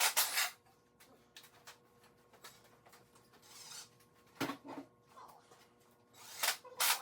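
A few sharp clanks and clicks, as of tools and parts being handled, with a brief rustling hiss about three and a half seconds in.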